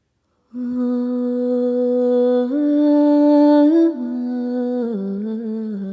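A single voice intoning a slow melody in long held notes, stepping up and down between pitches with short slides, starting about half a second in.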